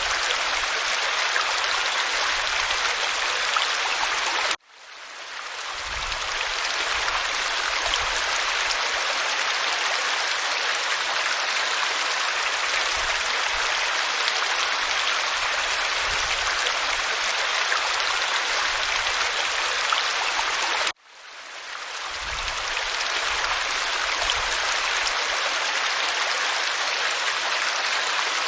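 Waterfall water rushing steadily over rock. Twice, about four and a half seconds in and again about twenty-one seconds in, it cuts out suddenly and fades back in over a second or two: seams where the recording loops.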